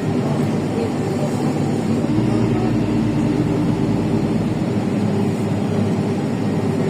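Inside a LiAZ 5292.65 city bus on the move: the Yuchai engine and road noise make a steady drone. A deeper low rumble swells in for a few seconds midway.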